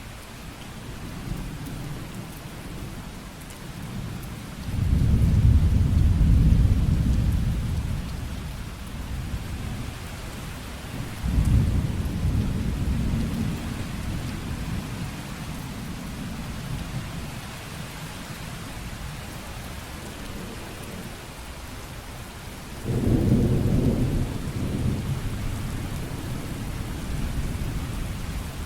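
Steady rain with rolling thunder: three low rumbles of thunder swell over the rain. The first, about five seconds in, is the longest and loudest; another starts suddenly about eleven seconds in, and a third comes near the end.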